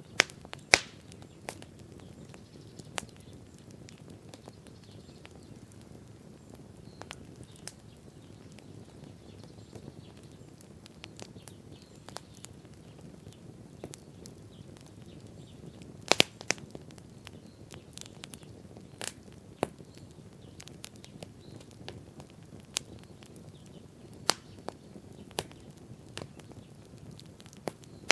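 Wood bonfire burning, with irregular sharp crackles and pops from the burning wood over a low steady rumble; the loudest pops come near the start and about halfway through.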